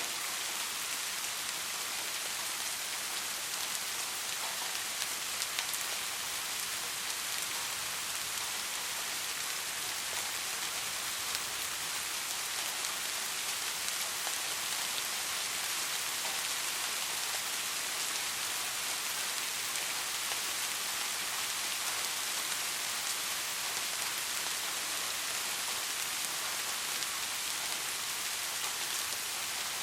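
Steady soft rain falling, an even hiss of many fine drops with scattered faint drop ticks.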